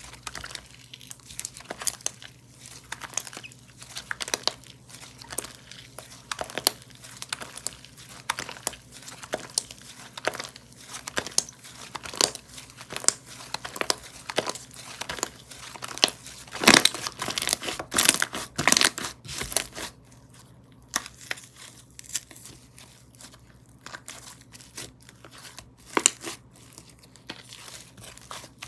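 Slime being handled, stretched and pressed by hand, giving a dense run of small crinkly, crackling clicks. The clicking is thickest and loudest about two-thirds of the way through.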